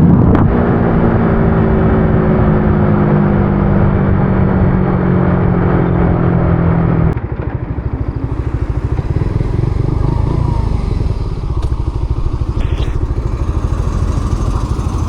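Motorcycle engine running at road speed, a steady hum whose pitch falls slowly; about seven seconds in it cuts abruptly to a lower, evenly pulsing engine sound.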